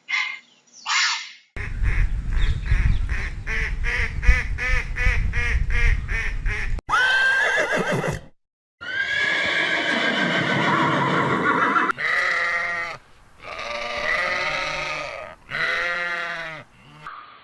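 Farm animals calling in a run of separate clips. First comes a rapid pulsing call, about three pulses a second, over a low rumble. Then a short call that falls in pitch, one long drawn-out call, and three shorter calls.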